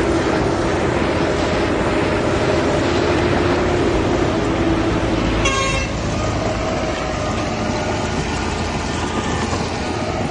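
Heavy diesel machinery engines running steadily, with one short horn toot about halfway through.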